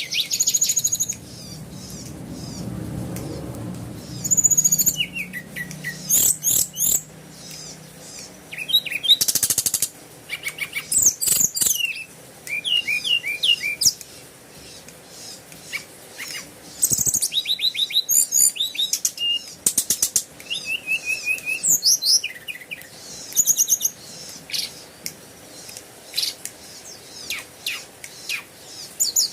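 Birds chirping and calling, with many short high chirps and quick trills, and a low hum underneath for the first few seconds.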